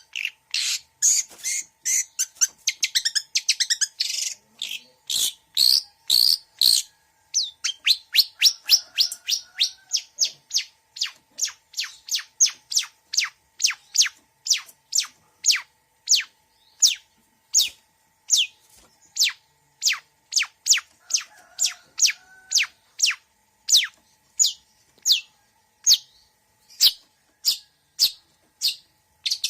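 Long-tailed shrike song full of mimicked fill-in phrases: a fast jumbled warble for the first few seconds, then a long run of sharp, high, downward-slurred chips at about two or three a second.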